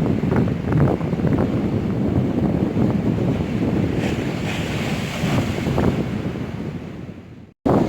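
Strong wind buffeting the microphone over stormy sea waves, with a hiss of breaking surf rising in the middle. The sound cuts off abruptly for a moment near the end, then resumes.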